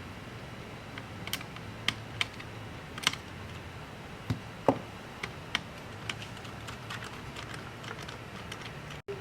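Computer keys being typed: irregular light clicks, a dozen or so spread unevenly, the loudest a little under five seconds in, over a steady low hum.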